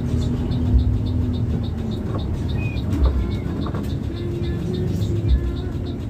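Low rumble of a bus on the move, heard from inside, with music playing over it. A light tick repeats about six times a second and a low thump comes about every two seconds.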